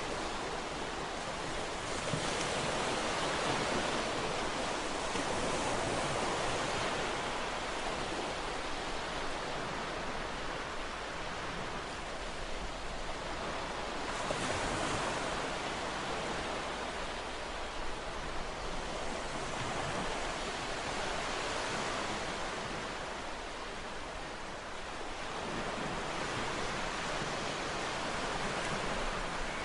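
Ocean waves breaking and washing on a shore, a continuous rush of surf that swells and eases every few seconds.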